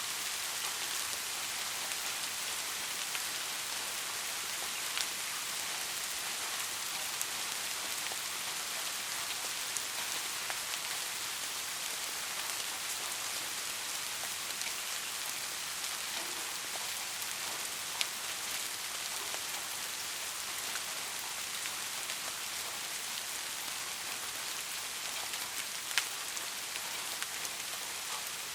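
Steady rain falling, a dense even hiss with scattered louder individual drops ticking, the clearest about a third of the way in and near the end.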